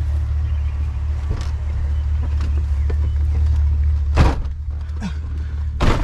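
Truck engine running with a steady low rumble, with two sharp knocks, one about four seconds in and one near the end.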